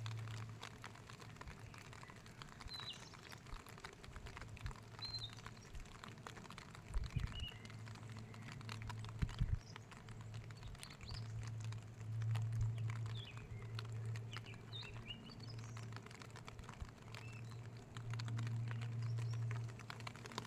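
Outdoor nature ambience: irregular light pattering and ticking, like falling drops, with short bird chirps here and there. A low steady hum swells and fades beneath it, and two dull thumps come about seven and nine seconds in.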